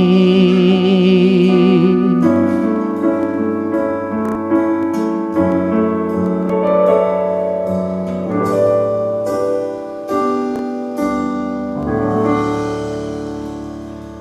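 Worship song ending: a singer holds the last note with vibrato over piano for about two seconds. Closing piano chords follow and ring out, fading away near the end.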